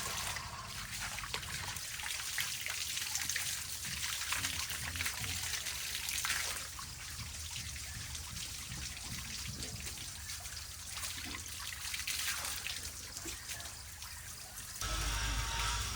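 Cold spring water trickling and splashing at a natural shower, its strength rising and falling. A low rumble comes in near the end.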